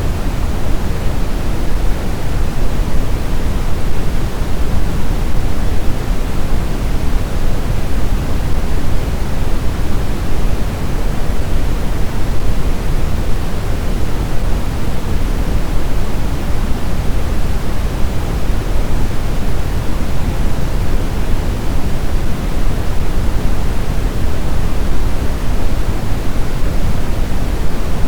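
Steady blizzard wind: an even, rushing noise, heaviest in the low end, with no separate gusts or whistles standing out.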